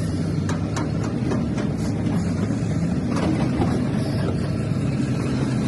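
A truck's diesel engine running steadily while driving, with a few light knocks or rattles over it.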